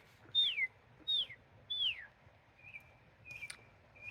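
Northern mockingbird singing: three clear whistled notes, each sliding down in pitch, repeated about two-thirds of a second apart, then two short buzzy notes.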